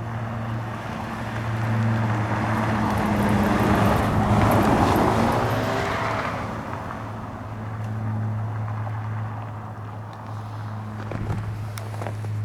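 A motor vehicle passes, its noise swelling to a peak about halfway through and fading, over a steady low engine hum.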